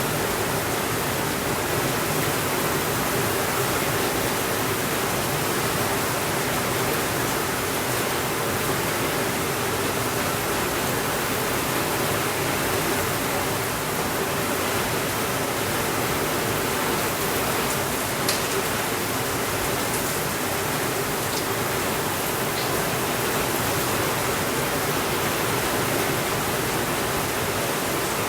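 Steady rainfall, an even, unbroken hiss, with a few faint sharp ticks about two-thirds of the way through.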